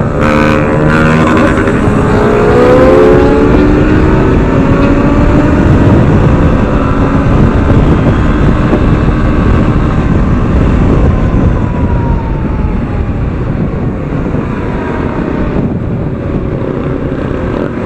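Motorcycle engine rising in pitch as it accelerates over the first few seconds, then riding on at speed under a dense, steady rushing noise.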